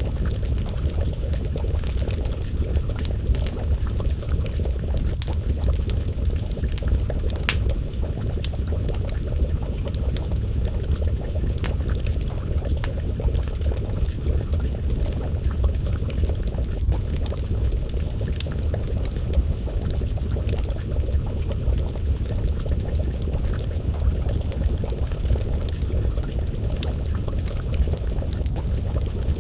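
A pot of stew bubbling at a simmer over a wood fire: a steady low bubbling rumble with scattered sharp crackles and pops from the burning wood.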